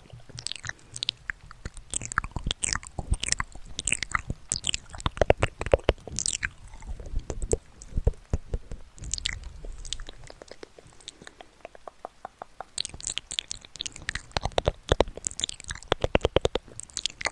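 Close-miked ASMR trigger sounds: rapid, irregular clicks and crackles in clusters, thinning out about two-thirds of the way in before getting busier again.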